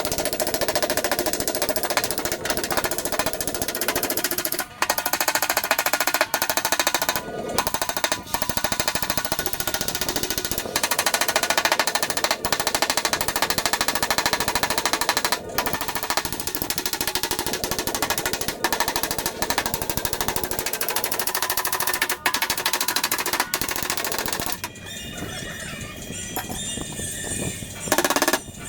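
A rapid-fire power tool chattering against car-body sheet metal in long runs with a few brief pauses. It cuts off about four seconds before the end, leaving a quieter passage.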